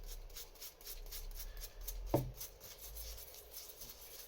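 A small brush scrubbing a greasy lock part wet with electronic contact cleaner, in quick repeated strokes, a few each second. A brief squeak about two seconds in.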